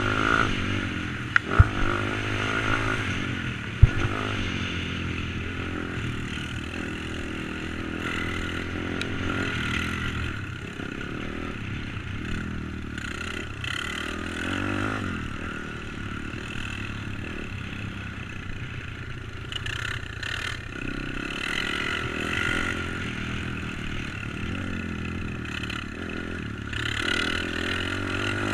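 Pit bike's tuned YX140 single-cylinder four-stroke engine being ridden, revving up and falling back again and again as the rider works the throttle and gears. There are a few sharp knocks in the first few seconds.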